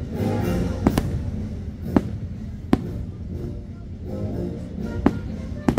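Fireworks show music playing, with aerial firework shells bursting overhead in sharp bangs, about five of them spread through the music.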